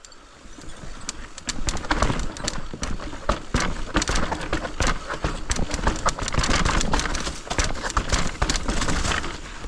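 Mountain bike clattering down a steep, broken rock staircase: a dense run of knocks and rattles as the tyres hit the rock steps and the chain and frame shake.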